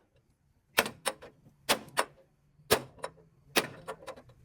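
A series of sharp knocks, about seven in all, mostly in quick pairs with short gaps between.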